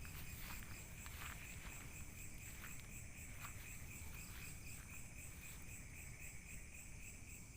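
Crickets or similar night insects chirping in a steady, evenly pulsing chorus, with a few faint clicks in the first few seconds over a steady low rumble.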